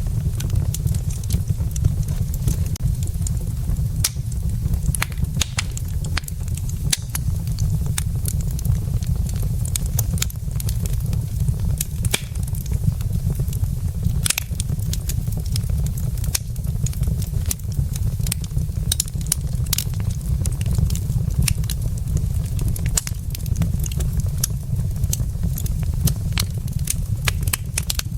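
Wood fire burning in a fireplace, with logs crackling in irregular sharp pops and snaps over a steady low rumble.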